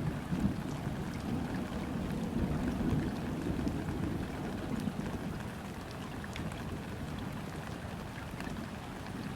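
Steady rain falling on river water, with scattered individual drops ticking. Under it a low rumble swells through the first half and then eases off.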